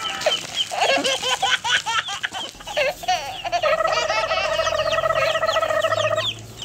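Many young chicks peeping rapidly and continuously. A steady held tone sounds over them for about two and a half seconds in the middle.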